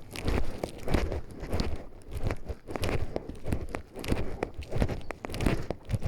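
Footsteps crunching and crackling along a forest path at a steady walking pace, with rustling between steps.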